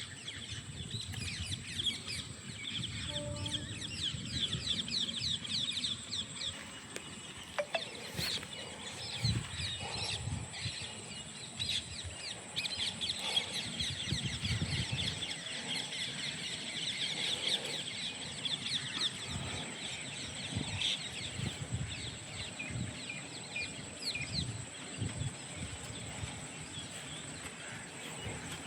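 Many small birds chirping and twittering, over a steady high-pitched whine and irregular low rumbling.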